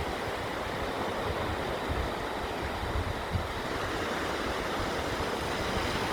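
Beach ambience: a steady rush of sea surf mixed with wind.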